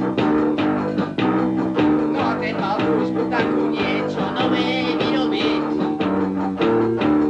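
Punk rock band playing a guitar-led passage, chords struck in a steady rhythm. It has the thin, lo-fi sound of a dictaphone recording made in a living room.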